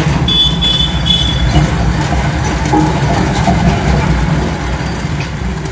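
Steady, loud mechanical engine noise with a dense low rumble, joined by a brief high whistle-like tone for about a second near the start; the noise fades near the end.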